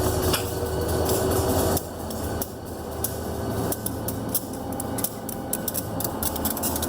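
Blue Ridge Southern train passing with a steady rumble and tones that drop off sharply about two seconds in, followed by a run of sharp clicks and knocks that grow quicker toward the end.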